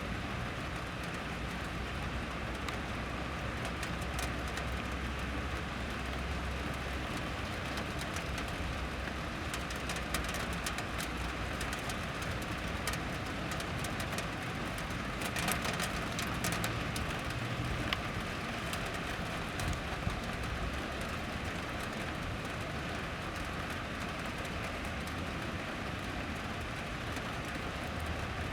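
Steady rain falling, a close hiss of rain with many sharp drop ticks, heaviest towards the middle. A low rumble sits under it in the first few seconds and again near the end.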